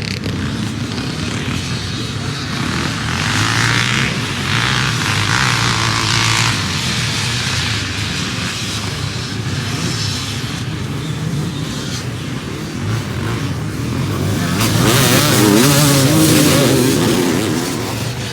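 Motocross motorcycle engines running and revving, with a loud haze of engine noise. They grow louder about fifteen seconds in, where the pitch rises and falls as a bike revs through its gears.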